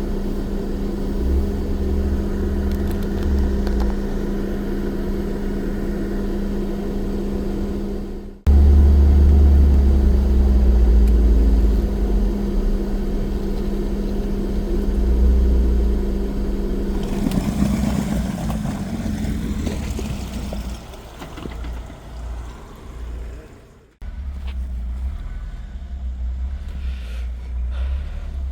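Off-road vehicle engine running steadily as the vehicle drives, with a constant low hum and rumble. A rushing noise rises briefly past the middle, and the sound breaks off abruptly twice.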